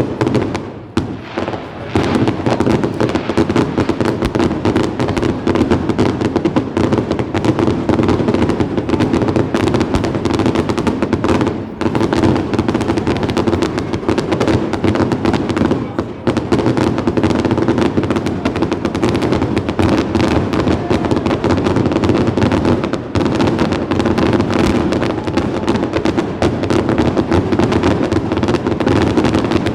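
Fireworks going off: a few separate bangs, then from about two seconds in a dense, rapid, continuous barrage of bangs and crackling.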